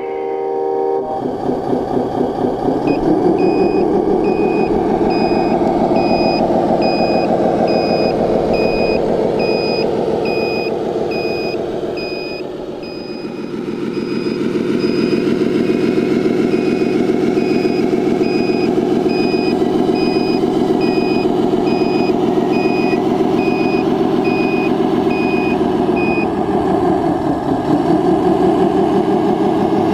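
Sound module of a scale RC truck: a simulated diesel engine running, with a reversing beeper sounding about twice a second from about three seconds in until a few seconds before the end. The engine note dips briefly around the middle and again near the end.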